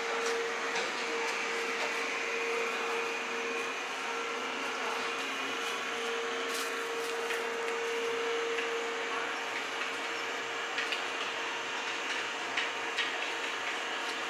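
Electric train standing at the platform, its on-board equipment running with a steady whir and a steady hum, with a few light clicks in the second half.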